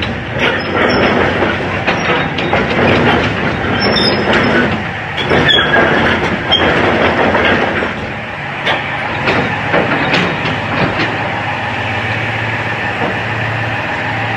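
Komatsu PC400-8 excavator running: the diesel engine hums steadily under a dense clatter of metal clanks and knocks, with a few short high squeaks in the first half. The clatter thins out about halfway, leaving the engine hum.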